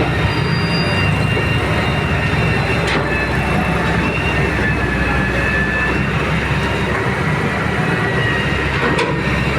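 Heavy excavator's diesel engine running steadily, with a thin high whine over the rumble. Two short sharp clicks, about three seconds in and near the end.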